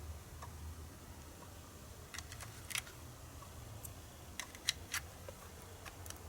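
Several short, sharp clicks and light taps of a USB cable plug and plastic cases being handled as a phone is plugged into the power bank, over a faint low hum.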